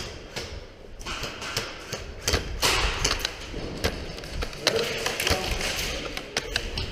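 Scattered knocks, taps and clicks at irregular intervals over a rustling background, with a louder knock about two and a half seconds in.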